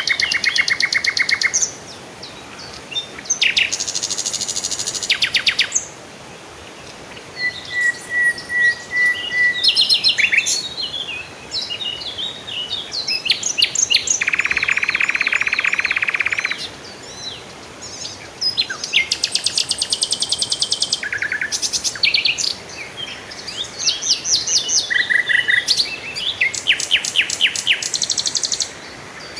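Several songbirds singing and calling together, with fast trills of rapidly repeated notes, short chirps and whistles. About halfway through, a steady buzzing note lasts for about two seconds.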